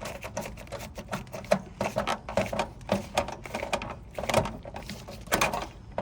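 Irregular clicking and clattering of a hand tool and wire against the metal electrical box of a heat pump pool heater as a wire connection is tightened down.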